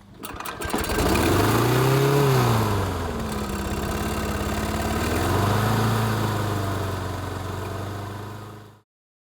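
A small petrol engine starts with a few clicks, then revs up and back down, revs up again, and cuts off abruptly near the end.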